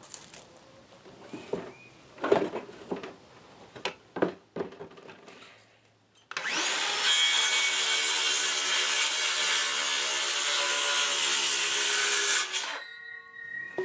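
Lumber being handled with a few knocks, then an electric power saw runs and cuts through a wooden deck board for about six seconds, stopping abruptly near the end with a faint ringing left behind.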